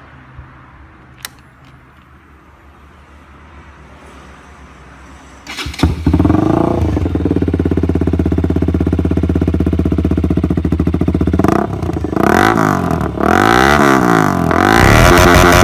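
Bajaj Pulsar RS 200's single-cylinder engine, breathing through an aftermarket R9 GP exhaust, starting up suddenly about five seconds in after a few quiet seconds with a couple of clicks. It idles steadily, then from about eleven seconds is revved up and down several times in quick blips, loudest near the end.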